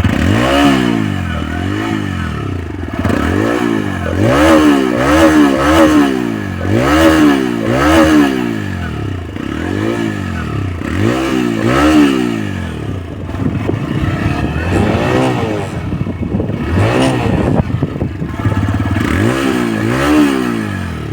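TVS Raider 125's single-cylinder engine through its stock exhaust, revved in a series of quick throttle blips while standing. Each blip rises and falls in pitch, some coming in rapid clusters, with steady idling in between.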